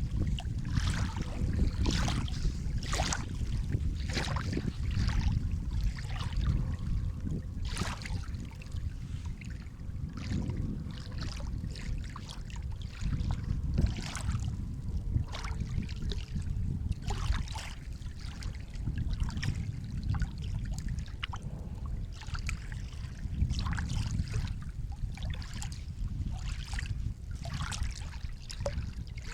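Sea water lapping and splashing, with a steady low rumble of surf under frequent small splashes and trickles.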